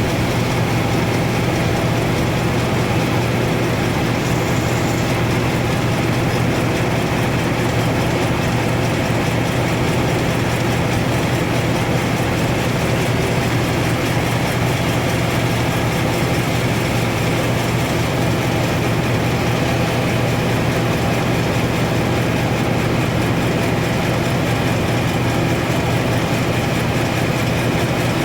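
Sawmill machinery running steadily, a constant loud mechanical drone with a strong low hum that does not change.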